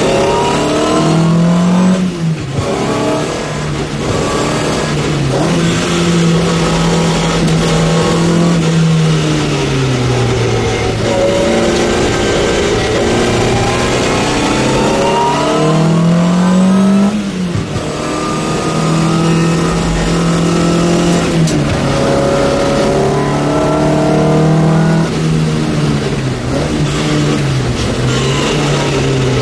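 Opel race car's engine heard from inside the cockpit, driven hard: the pitch climbs and falls again and again as it is revved out, shifted and backed off for corners, with sudden drops about 2 s and about 17 s in.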